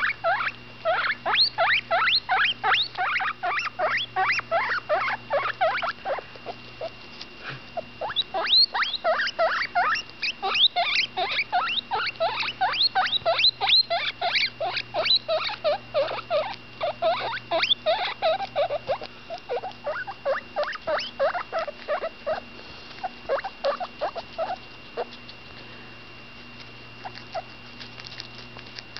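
Baby guinea pig, about ten days old, squeaking while she eats: a long run of short chirping squeaks, about three or four a second, with a brief pause near the start and fewer squeaks toward the end.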